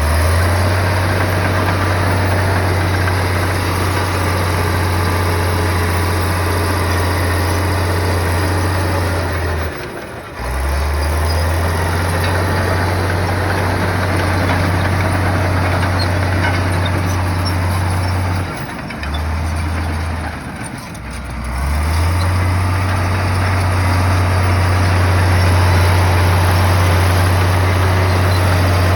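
Bulldozer's heavy diesel engine running with a steady low drone. It drops out briefly about a third of the way in and again twice around two-thirds of the way through.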